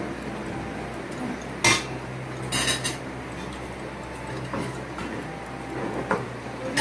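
Spoons and forks clinking against ceramic plates and a metal serving pot during a meal: a few short, sharp clinks, the loudest cluster about two and a half seconds in, over a low steady hum.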